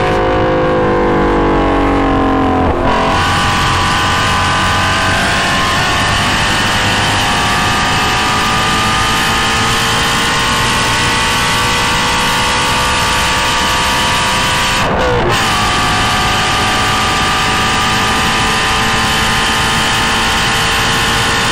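2016 Shelby GT350's 5.2-litre flat-plane-crank V8 through a GT350R exhaust, close-miked at the exhaust. The engine note falls for about three seconds, then the car goes to full throttle with the pitch climbing steadily in one long pull. A quick upshift comes about fifteen seconds in, and the pitch climbs again.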